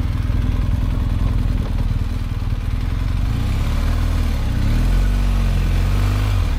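Motorcycle engine running at low revs, its note rising a little and getting slightly louder about four and a half seconds in.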